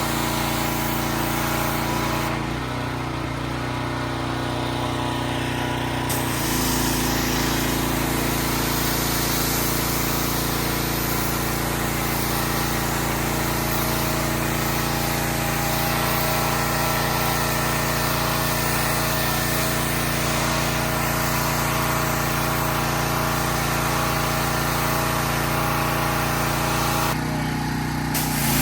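A motor running steadily with a constant hum, its tone changing abruptly about two seconds in, again about six seconds in, and near the end.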